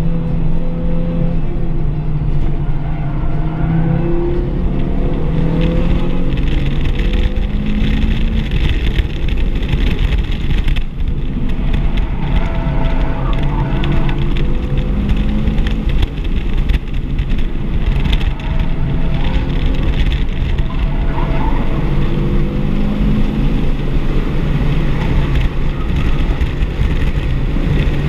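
Heard from inside the cabin: a 2024 Audi RS3's turbocharged 2.5-litre five-cylinder engine under hard acceleration, its pitch rising again and again as it pulls through the gears. Road and tyre noise run underneath.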